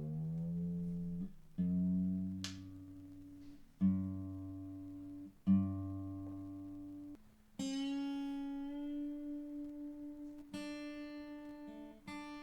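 Seagull S6 acoustic guitar being tuned up: single strings of a fresh set plucked one at a time, about seven times, each note left to sound while the tuning peg is turned, so the pitch slides upward into tune. Partway through, the plucking moves to a higher string.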